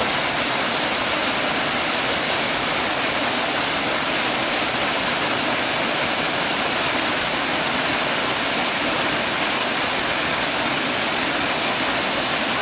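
Small woodland waterfall: a steady rush of water falling over layered rock.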